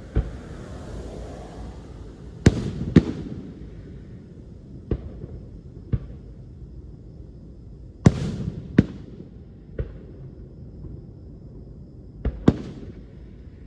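Aerial fireworks shells bursting in a display: about ten sharp booming reports, several in quick pairs half a second apart, over a continuous low rumble. A longer hissing haze trails the first burst and the one about eight seconds in.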